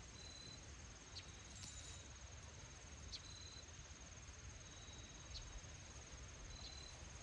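Faint insects trilling: a steady, high, finely pulsing trill, with shorter, lower chirps that repeat about every second and a half.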